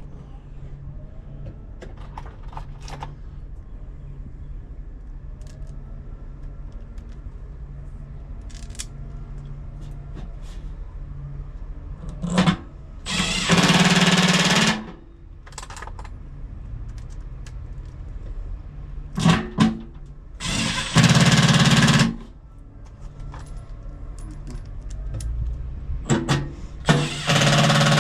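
A power tool runs in three short bursts of about a second and a half each, with a few clicks just before each one, over a steady low hum.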